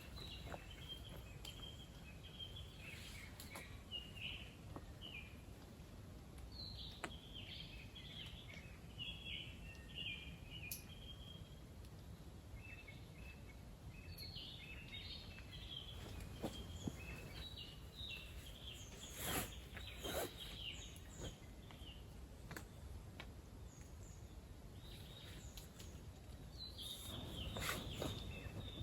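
Birds chirping and calling repeatedly over a low steady outdoor hum, with a few brief knocks and rustles from handling near the end and a little past the middle.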